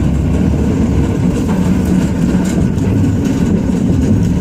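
Ram 2500's Cummins inline-six turbo diesel engine running under load while plowing, heard from inside the cab as a steady low drone.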